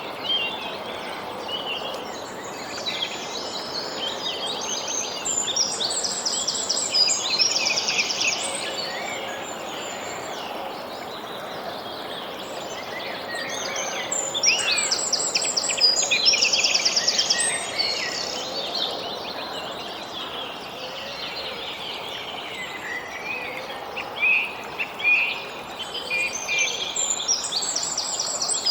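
Songbirds singing, with fast chirping trills that come in bursts about every nine or ten seconds, over a steady background hiss of outdoor ambience.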